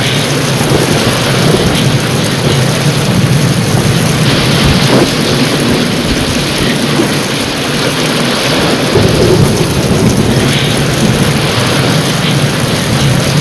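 Heavy rain pouring steadily, with a low continuous rumble of thunder beneath the hiss of the downpour.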